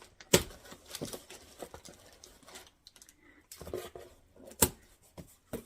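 A cardboard shipping box being opened and handled: scattered knocks, taps and rustling, with two sharp knocks, one just after the start and a second near the end.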